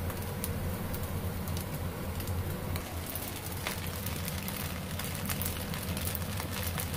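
Fried rice sizzling in a wok over a gas burner: a steady crackling hiss with scattered light ticks, over a steady low hum.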